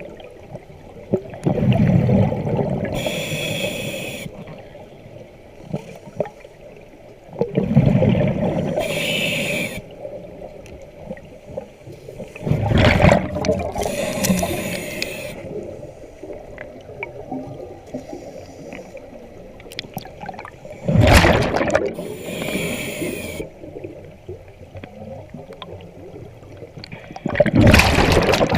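Diver breathing underwater through a regulator: five slow breaths, each a hiss and a rumbling gush of exhaled bubbles, with quieter gurgling between.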